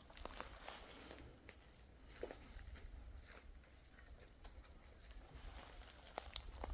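A cricket chirping steadily in a rapid, even pulse, with faint scattered clicks and rustles beneath it.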